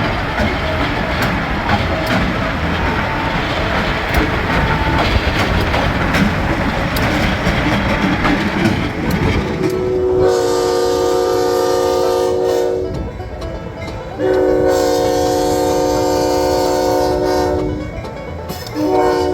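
Diesel locomotive (GE U23B) running with rumbling engine and rail noise, then its multi-chime air horn blows two long blasts and a short one near the end. This is the opening of the long-long-short-long grade-crossing signal.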